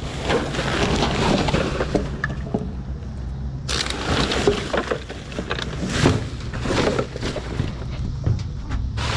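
Scrap wire and metal being handled and dropped onto a pile: irregular clanks, knocks and crunches, over the steady low hum of an idling engine.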